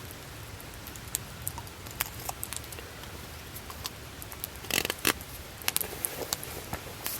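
Wood campfire crackling, with scattered sharp pops and a louder cluster of pops about five seconds in, over a low steady rumble.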